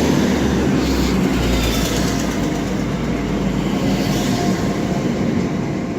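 Passenger train pulling out of the station, a steady running rumble with a low hum and no sharp events.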